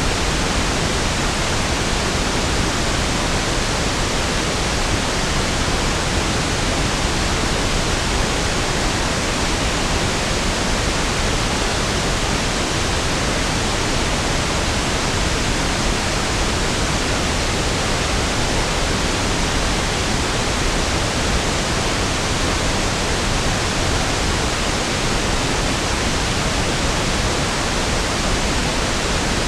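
Steady pink noise: an even hiss, fuller in the low end than white noise, with no change throughout.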